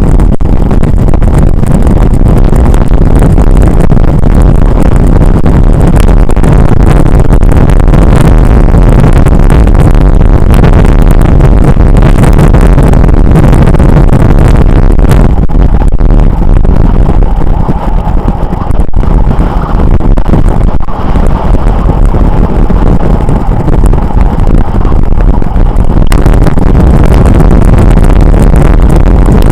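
Wind buffeting the microphone of a camera on a moving bicycle: a loud, steady rumble that eases slightly for a few seconds past the middle.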